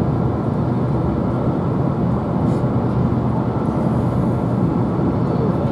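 Steady low rumble of a car driving, with road and engine noise heard inside the cabin.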